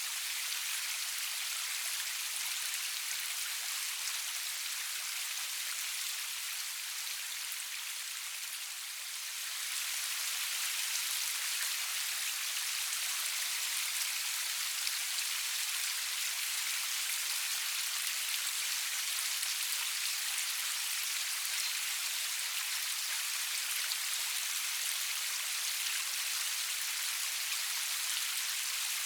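Steady rain falling, a dense even patter of drops with no thunder. It eases slightly for a few seconds around eight seconds in, then picks up again.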